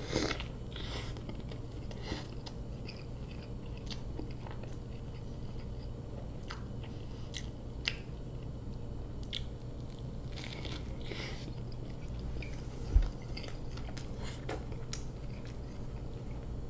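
A person biting into a burger at the start, then close-up chewing with scattered wet mouth clicks. A single low thump about 13 seconds in.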